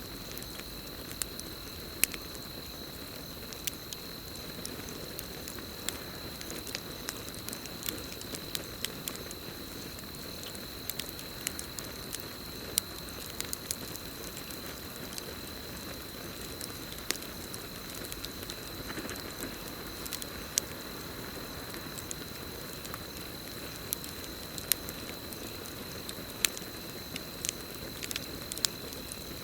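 Campfire crackling, with irregular sharp pops over a low steady rush of flame. A steady high cricket trill sounds alongside it.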